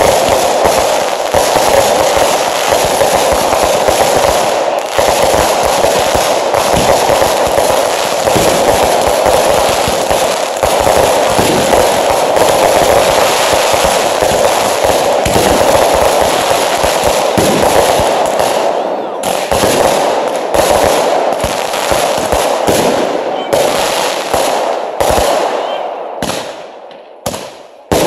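Fireworks going off: a dense barrage of crackling bangs over a steady hiss, thinning after about 18 seconds into scattered cracks that die away, then one sharp bang at the very end.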